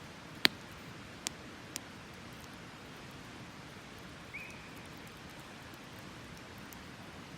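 Wood fire burning: a steady hiss with a few sharp crackling pops, the loudest about half a second in and two smaller ones soon after. A brief high chirp is heard a little past four seconds in.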